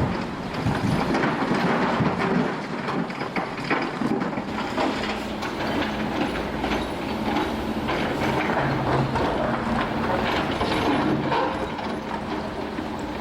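Demolition machinery at work on a building: a steady engine hum under continuous clattering and knocking of breaking material and debris.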